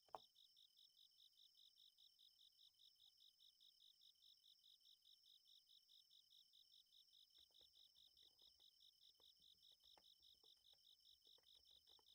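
Faint summer-night insects chirping in an even rhythm of about four to five high pulses a second over a steady higher trill. A single key click comes just after the start, and from about seven seconds in there is soft typing on a Niz Plum x108 electrostatic capacitive keyboard.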